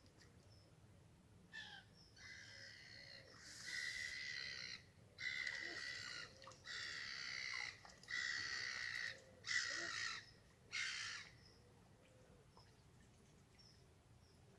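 A bird giving a run of about seven harsh, drawn-out cawing calls, one after another, starting about a second and a half in and stopping about eleven seconds in.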